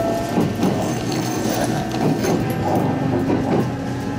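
Electric local train running, heard inside the carriage: wheels clattering and knocking over the rails under a steady motor hum and whine.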